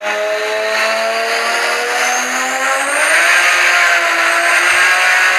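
Turbocharged high-horsepower car engine accelerating hard, its pitch rising steadily, with a faint high whine climbing above it and a loud rushing noise building from about halfway.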